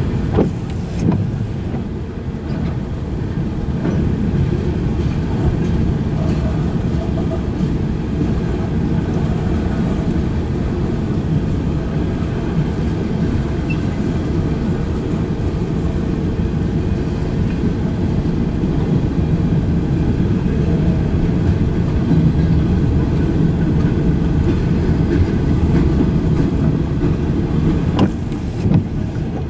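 Freight cars of a manifest train rolling past: a steady low rumble of steel wheels on the rails, with a few sharper clanks near the start and again near the end.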